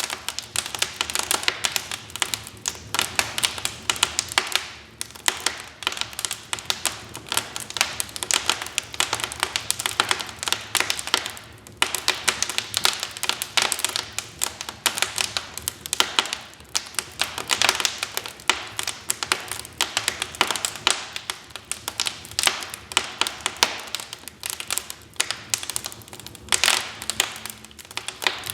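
Wood fire crackling in a fireplace: a dense, irregular run of sharp pops and snaps from burning logs.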